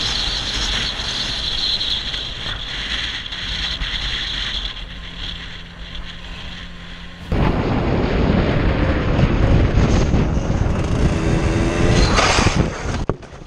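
Motorcycle riding noise: wind buffeting the microphone over the engine's drone. About seven seconds in the sound jumps abruptly to a louder, rougher wind rumble.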